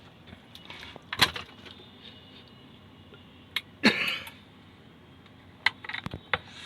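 A few scattered light clicks and knocks of handling on the workbench, the loudest about four seconds in and a quick run of small clicks near the end.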